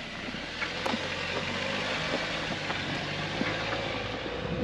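Off-road 4x4's engine running steadily at low revs as it crawls a rock obstacle, with a few scattered small clicks.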